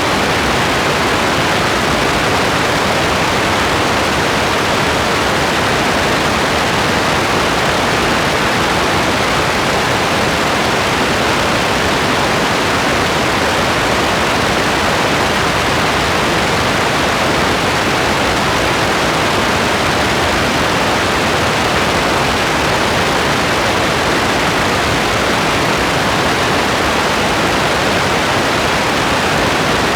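Steady rain, an even, unbroken hiss that does not change in level.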